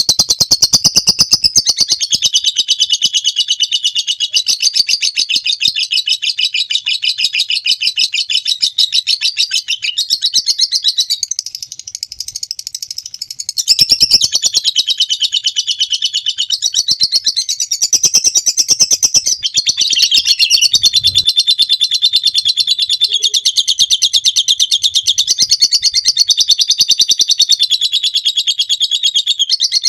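Lovebird singing its long 'ngekek' song: a high, rapid, chattering trill of repeated notes that runs on almost without a break. It dips for a couple of seconds about halfway through, then resumes at full strength.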